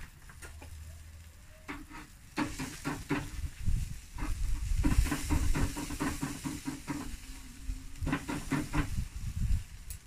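Chicken sizzling and crackling on a braai grill over an open fire. Runs of sharp crackles and clicks start about two seconds in over a steady hiss, which is loudest in the middle.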